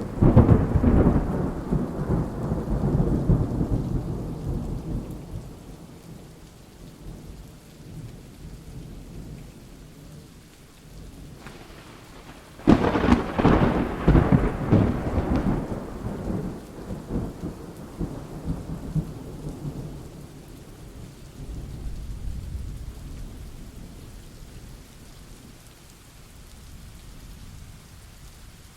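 Thunderstorm: steady rain with rolling thunder. One loud thunderclap comes right at the start and rumbles away over several seconds, a second, sharper crack comes about thirteen seconds in, and a fainter low rumble follows around twenty-two seconds.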